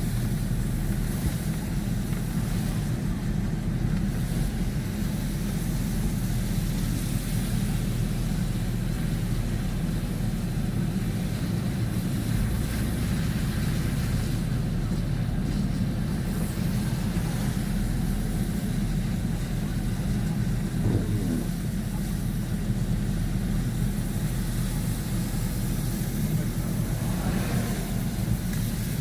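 Steady road and engine rumble of a car driving, heard from inside the vehicle.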